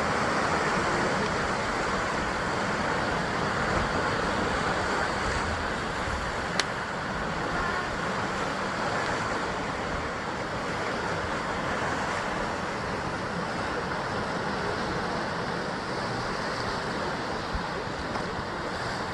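Ocean waves washing and breaking against a rocky basalt coastline in a steady rush, with one sharp click about six and a half seconds in.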